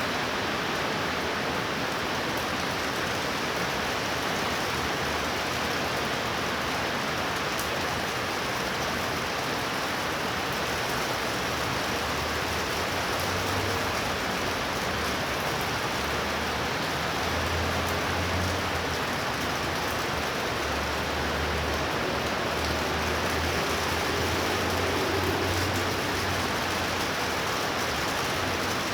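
Torrential rain pouring down in a steady, even hiss. A low rumble comes and goes underneath in the second half.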